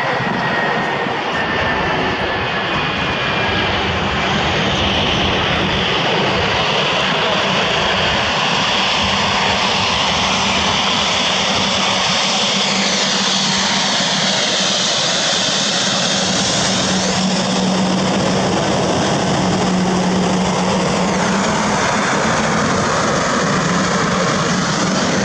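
Jet airliner passing close by, its engines making a loud, steady noise with a low hum and higher tones that slowly sweep up and down as it moves.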